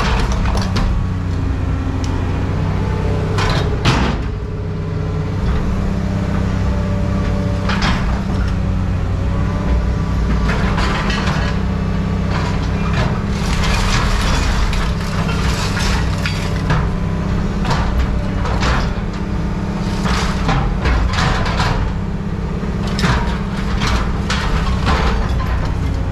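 A steady low engine hum under many irregular metallic clanks and knocks, as pieces of scrap metal are handled and dropped.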